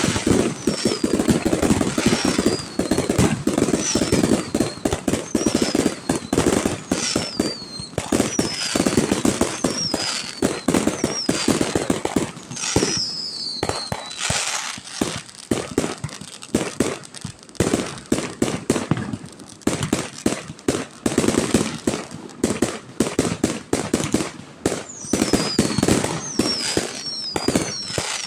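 Aerial fireworks display going off continuously, a dense run of bangs and crackling, with repeated high whistles falling in pitch.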